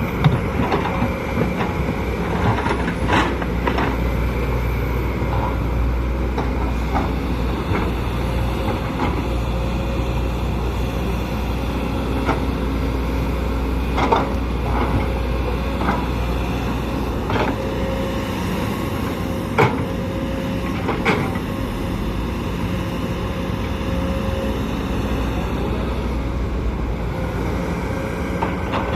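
Diesel engine of a Sumitomo SH210LC crawler excavator running steadily under load, with a few sharp knocks scattered through, loudest about 14 s and 20 s in.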